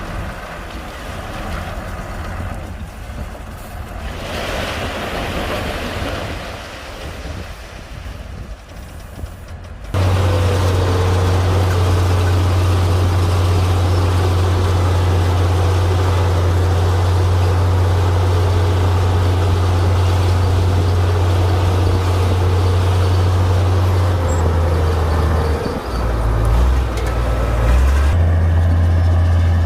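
Heavy bulldozer engine running, with wind noise. About a third of the way in it turns suddenly into a much louder, steady low rumble, which wavers briefly near the end.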